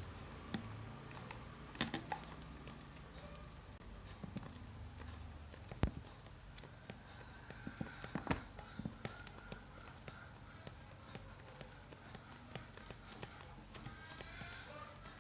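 Hands working on a used plastic bottle and craft materials: scattered light clicks and taps, with a cluster about two seconds in and another around eight seconds.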